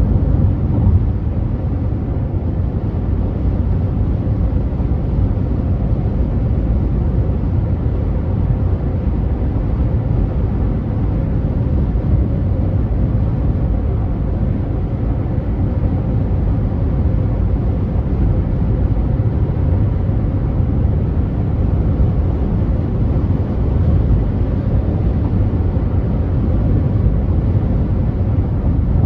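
Steady low rumble of a car cruising on a freeway: tyre and road noise with the engine underneath, unchanging throughout.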